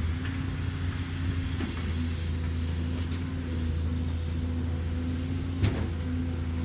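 Cat excavator's diesel engine running steadily, with one sharp knock a little before the end.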